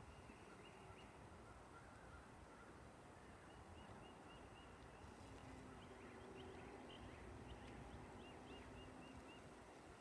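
Near silence: faint outdoor ambience with a distant bird giving two quick runs of repeated chirps, around the middle and again near the end.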